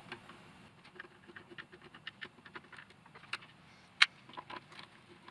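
Light, irregular clicks and taps of hard plastic parts and a hand tool being handled while a robot vacuum is taken apart, with one sharp click about four seconds in.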